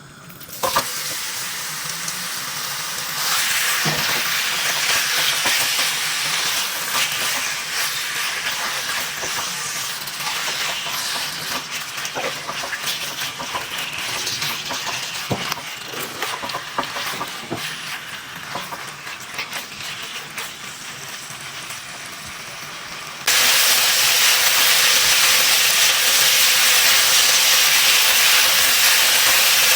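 Food frying in a hot pan, sizzling with a steady hiss, with the occasional click of a utensil stirring against the pan. About 23 seconds in, the sizzle suddenly gets louder and evener.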